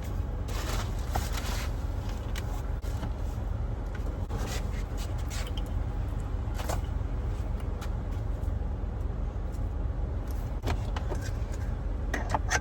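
Steady low rumble with scattered light clicks and rustles, as of things being handled and wiped inside a car.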